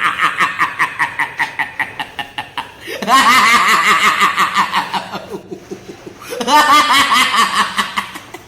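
A person laughing in three long bouts of rapid, repeated ha-ha pulses, with short breaks between them.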